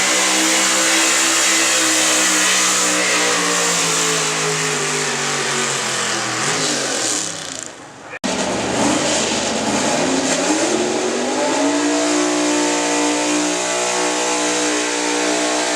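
Gasoline 4x4 pulling truck's engine at full throttle, its pitch sinking over several seconds as it bogs down under load, then cutting off abruptly. An engine then picks up again, dips briefly, and climbs back to a steady high rev.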